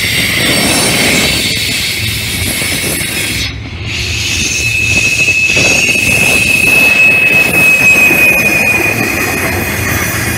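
Freight train of loaded tank cars rolling past close by: a steady rumble and rattle of steel wheels on rail. About four seconds in, one high wheel squeal sets in and holds, sinking slightly in pitch, until it fades near the end.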